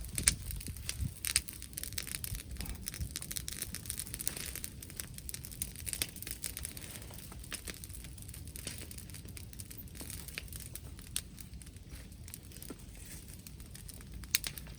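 Wood bonfire crackling, with many sharp pops and snaps, thickest in the first few seconds, over a low steady rumble.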